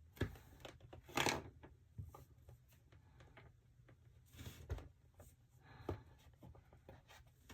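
Faint hand-handling noises at a craft work table: scattered light clicks, taps and rustles, with a short louder rustle about a second in and another cluster past the midpoint.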